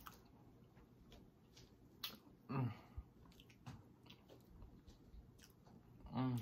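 A person chewing and biting fried red snapper picked apart by hand, with small wet mouth clicks. A brief vocal sound comes about two and a half seconds in and another near the end.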